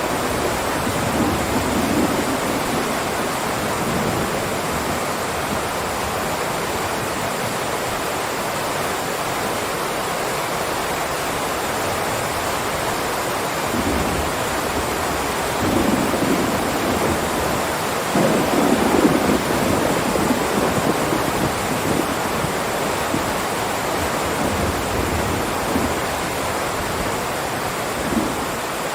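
Heavy rain pouring down steadily, with low rumbles swelling up a little past halfway through and again a few seconds later.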